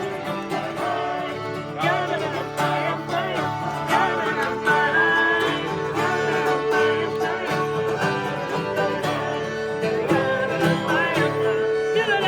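Acoustic string band playing a wordless nigun melody: plucked guitar and banjo carry steady chords while a lead line with vibrato wavers above them.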